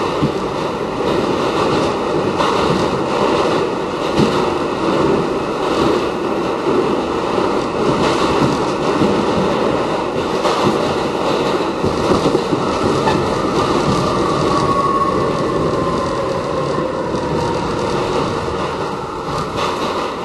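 Westinghouse R68 subway car running at speed, with a steady rumble of wheels on rail and scattered clicks from the rail joints. A faint whine falls in pitch about two-thirds of the way through.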